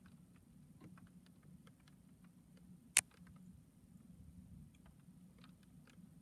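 Faint, irregular ticks of raindrops falling during a thunderstorm, over a low steady hum. One sharp, louder click comes about three seconds in. No thunder is heard.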